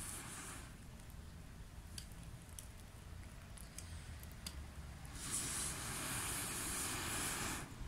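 A gas torch burner hissing in a short blast: a steady rush that switches on abruptly about five seconds in and cuts off about two and a half seconds later, with a few faint clicks before it.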